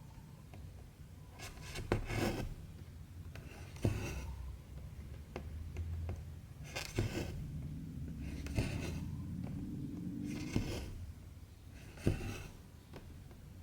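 Cotton embroidery thread being pulled through 14-count cross-stitch fabric, a short swish every one to three seconds, with a few sharp clicks of the needle.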